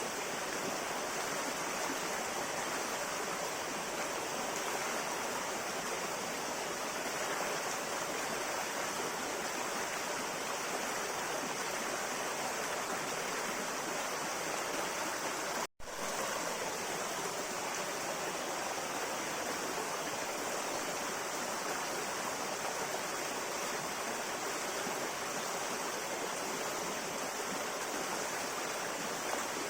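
A river flowing steadily, with an even rush of water. It cuts out to silence for a split second about halfway through, then carries on unchanged.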